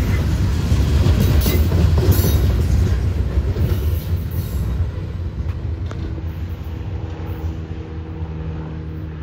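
Loaded coal hopper cars of a Norfolk Southern freight train rolling past on the rails, a low rumble that fades as the end of the train moves away. A steady low hum comes in about halfway through.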